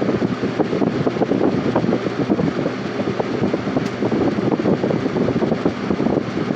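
Lasko Superelectric box fan running: a steady rush of moving air with rapid buffeting.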